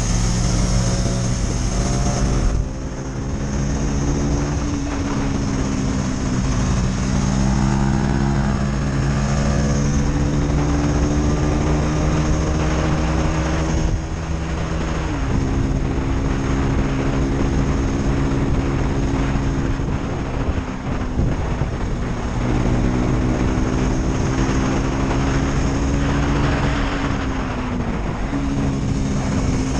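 KTM Duke 250's single-cylinder four-stroke engine running steadily, its pitch drifting slowly up and down. The pitch drops sharply about 15 seconds in and again near the end.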